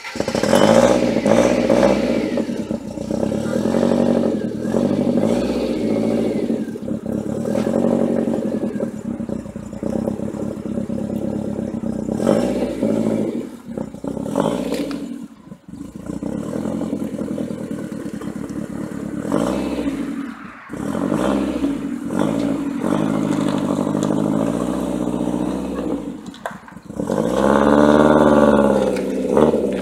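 Lancia Delta HF Integrale's turbocharged four-cylinder engine, tuned to about 320 hp and fitted with a sport exhaust, revved repeatedly while standing. The revs rise and fall, with brief drops off the throttle, and there is a long high rev near the end.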